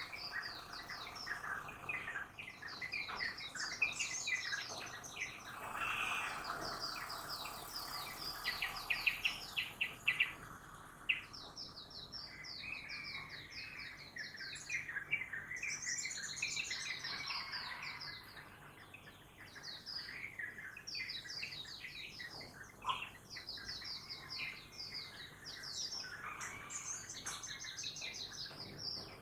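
Dawn chorus of many birds chirping and singing at once: dense, rapid, overlapping high chirps and trills that never let up.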